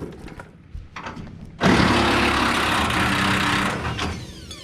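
A power tool starts suddenly and runs with a steady whine for about two seconds, then fades, as it spins out one of the bolts holding the engine cover. A small knock comes earlier.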